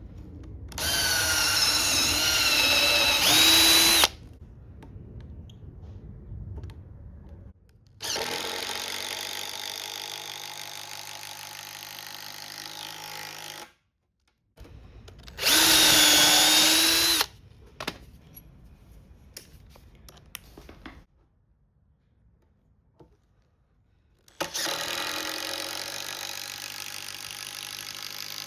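Power drill driving screws into treated timber in four runs: a short loud burst with a wavering whine near the start, a longer quieter steady run, another short loud burst about halfway, and a longer steady run near the end.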